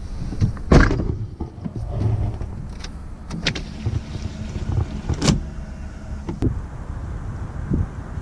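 A car running with a low rumble, with several sharp clicks and knocks spread through it: the Nissan 240SX with its swapped 1JZ VVTi engine, about to be taken for a drive.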